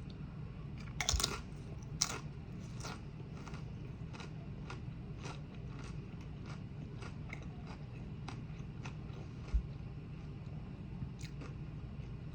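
Close-up crunching of tortilla chips being bitten and chewed: a couple of crisp bites about one and two seconds in, then steady chewing crunches at about two to three a second. There is one low thump about two-thirds of the way through.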